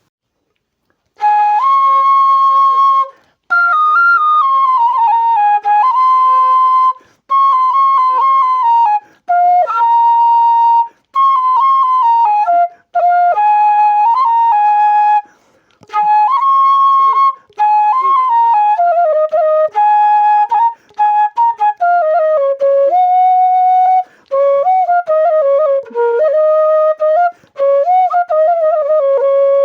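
A melody played on a flute with a clear tone. It comes in short phrases of one to two seconds, stepping and sliding between notes, with brief breaks between the phrases.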